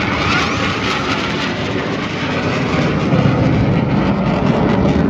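Aircraft flying low past, a loud steady engine noise with a faint falling whine in the first second and a deeper rumble building from about three seconds in.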